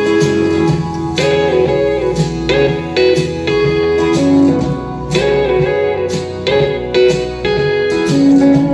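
Instrumental break of a country song between sung verses: guitars playing, with slide guitar notes bending in pitch.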